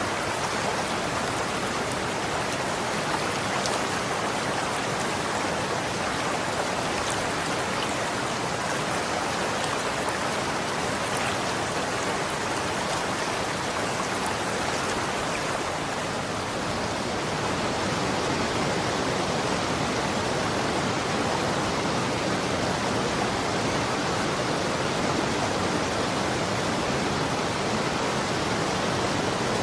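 Running water flowing steadily, a dense even rush of water with faint splashing ticks.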